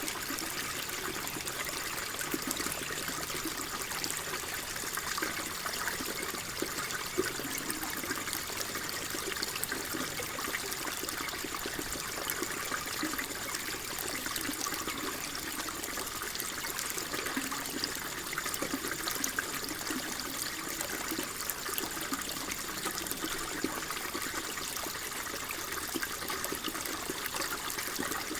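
Small stream of water flowing and trickling steadily, with constant fine splashing and gurgling.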